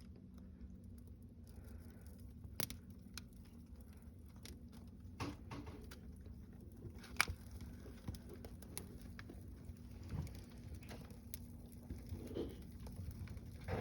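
Newspaper and small kindling just lit in a fireplace grate, burning with sparse, irregular crackles and pops over a faint steady hum.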